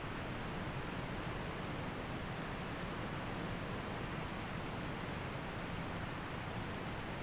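Waterfall and mountain stream rushing in a steady, unbroken wash of noise.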